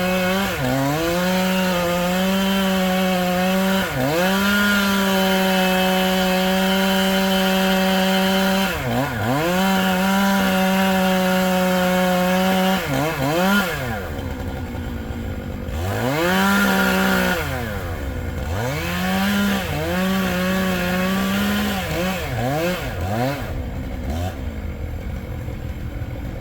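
Chainsaw cutting through bur oak, the engine held at full throttle with brief drops in speed between cuts. From about halfway through, it is quieter and the throttle is blipped up and down in short revs.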